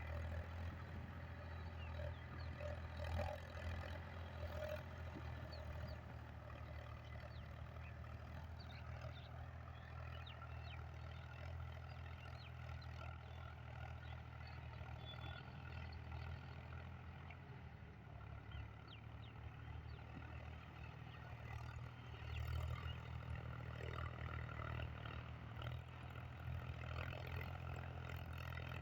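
A tractor engine running steadily at a constant low speed, heard faintly as a low hum.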